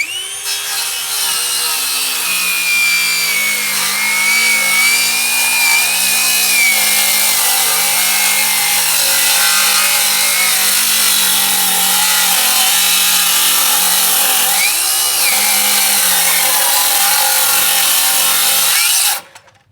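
Metabo HPT 36V MultiVolt 7¼-inch rear-handle circular saw ripping lengthwise down a 2x4. The saw runs loud and steady under load, and the whine of the motor and blade sags and recovers as the saw is pushed through the wood. It stops suddenly near the end.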